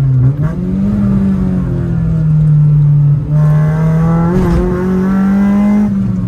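Honda Civic EK4's four-cylinder engine pulling the car along, heard from inside the cabin. Its note steps up and down with the throttle: it dips briefly about a third of a second in and again around three seconds in, then pulls harder and higher until near the end.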